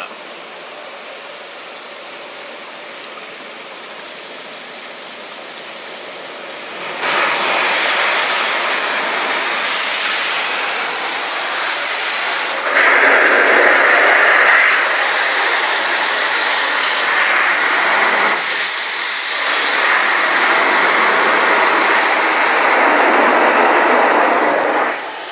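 Kärcher automatic car wash spraying water over the car, heard from inside the cabin: a quieter hiss at first, then about seven seconds in the jets hit the car with a sudden loud rush that swells and shifts as the spray moves over the body, dropping away just before the end.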